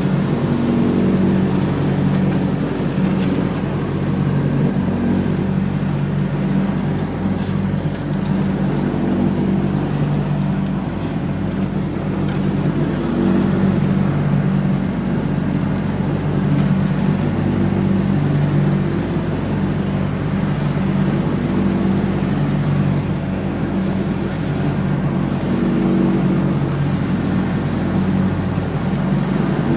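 John Deere X304 riding mower's engine running steadily at mowing speed. Its pitch and loudness swell and ease slightly every few seconds as the load changes.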